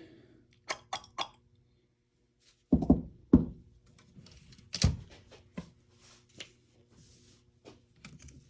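Clicks and knocks of an airsoft rifle's handguard being taken apart as its bottom plate is removed. Three quick light clicks, two heavier knocks about three seconds in, a sharp click near the middle, then a few faint handling clicks.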